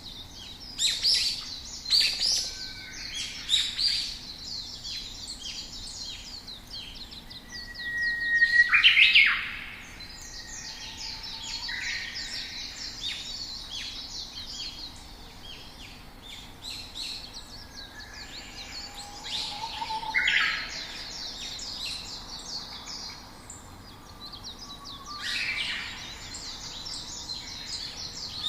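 Songbirds chirping and singing, a busy run of short calls with a few louder bursts of song, the loudest about nine seconds in.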